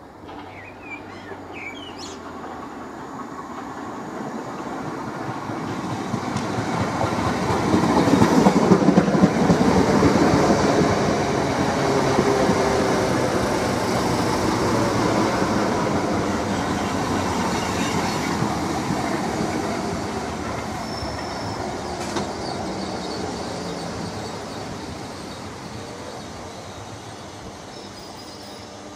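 Southeastern Class 465 Networker electric multiple unit running into the platform, its wheels clattering over the rail joints and points. The sound builds as the train comes close, is loudest about eight seconds in as the front passes, then fades slowly as the carriages run by, with a faint wheel squeal near the end.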